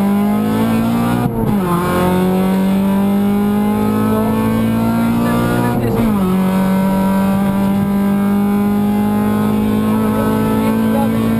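Honda Civic VTi rally car's VTEC four-cylinder engine at full throttle, heard inside the cabin: the revs climb, drop with an upshift about a second in, climb again, drop with another upshift near the middle, then rise slowly and hold high.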